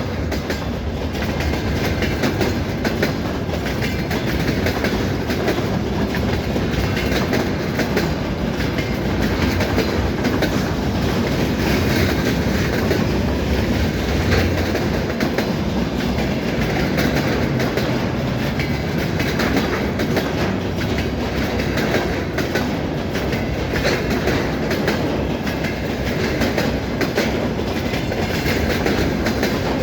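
Freight train rolling past at speed: a steady, loud noise of wheels running on the rails, barely changing over the whole stretch.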